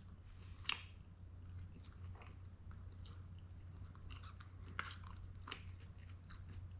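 A person chewing a mouthful of food close to the microphone, with a few sharp crunchy clicks, over a low steady hum.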